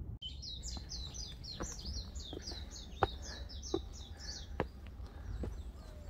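A songbird singing a fast run of short, high, falling notes, about five a second, which stops a little before four seconds in. Under it, footsteps on stone steps land as sharp knocks about every three-quarters of a second, the loudest about three seconds in.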